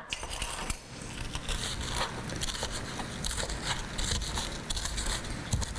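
Fried rice with bacon sizzling in a wok on the stove: a steady crackling hiss scattered with small pops.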